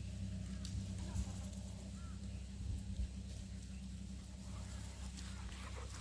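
Faint short squeaks from playing puppies, with a few soft thumps, over a steady low hum.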